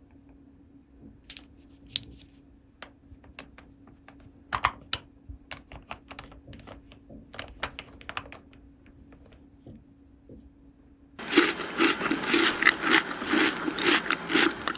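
Small plastic toy pieces clicking and tapping in scattered, irregular knocks. About 11 seconds in, a louder, dense rustling noise starts and runs for about three and a half seconds.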